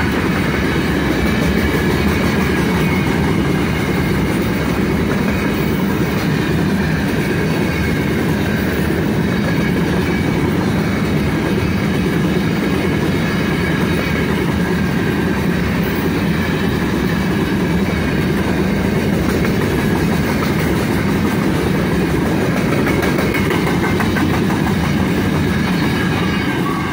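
Freight train's open-top wagons rolling past close by at speed: a steady rumble of steel wheels on rail with clickety-clack over the rail joints.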